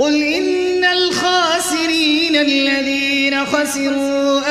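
A man's voice chanting Quran recitation in melodic tajweed style, drawing out one long, ornamented vowel that steps and turns in pitch a few times.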